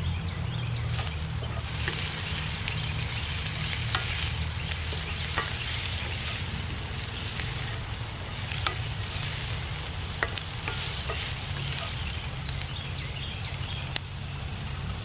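Vegetables sizzling in a cast iron skillet, stirred with a wooden spatula that gives a sharp tap or scrape against the pan every second or two.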